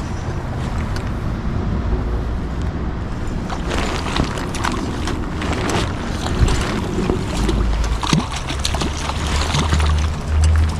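Rushing river water with wind buffeting the microphone, a continuous noisy wash with a deep rumble.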